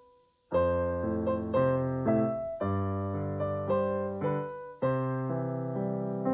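Piano playing a steady run of chords, about two a second, each struck and then fading. It starts after a brief silence at the outset.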